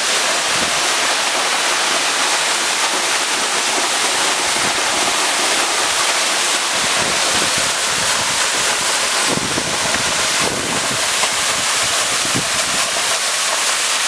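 Large waterfall's steady, loud rush of falling water, with gusts of wind, driven by the force of the falling water, buffeting the microphone now and then, mostly in the second half.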